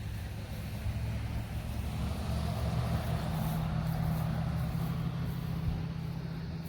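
A motor vehicle's engine running with a steady low hum, growing louder toward the middle and easing a little near the end, as if passing close by.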